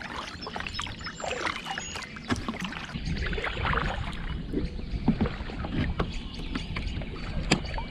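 Handling noise in a small paddled boat, such as a kayak: paddle and water sounds with scattered sharp knocks and clicks against the hull. A low rumble comes in about three seconds in.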